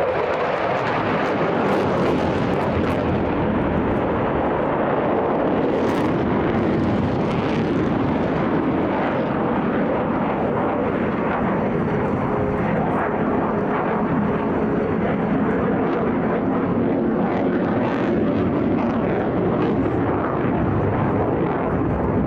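Eurofighter Typhoon jet fighter flying its display: a loud, steady jet engine sound that carries on without a break.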